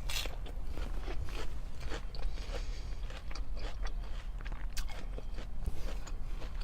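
Close-up eating sounds: a person chewing a mouthful of salad, with irregular crisp crunches throughout.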